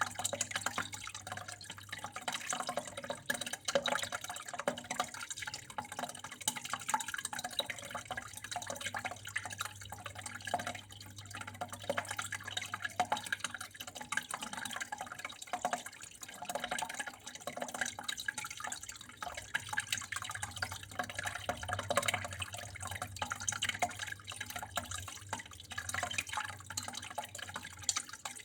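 Water flowing and trickling steadily, with many small irregular drips and splashes, over a low steady hum.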